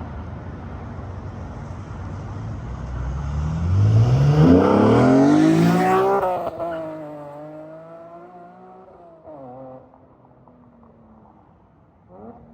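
BMW E46 M3's 3.2-litre straight-six through a race header and Supersprint race exhaust, accelerating hard past: the exhaust note rises in pitch and is loudest about five seconds in, then drops in pitch and fades as the car pulls away.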